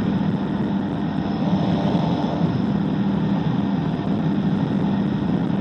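Microlight aircraft engine and propeller running steadily, an even drone with a low hum.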